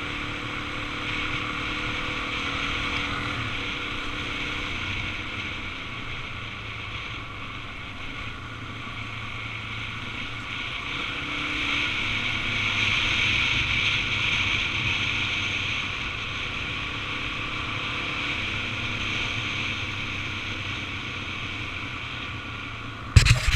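Suzuki DR-Z400 single-cylinder engine running steadily while riding, mixed with wind rush on the microphone. The engine note drifts a little and the noise swells for a few seconds midway. A few loud knocks come near the end.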